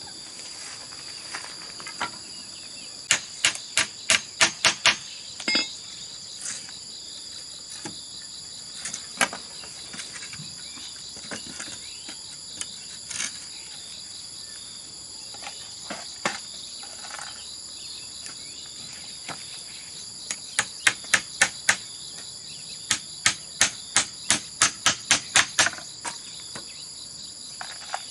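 Runs of quick, sharp tool strikes on bamboo, about three a second, in three bursts with single knocks between, over a steady high-pitched chorus of crickets.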